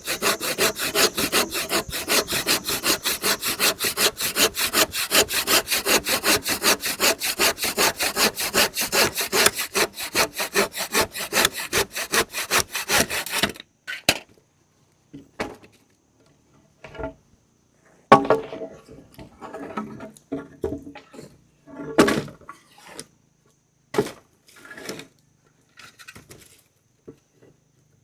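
Hand saw cutting through wood in fast, even strokes, which stop abruptly about halfway through. After that come scattered knocks and scrapes.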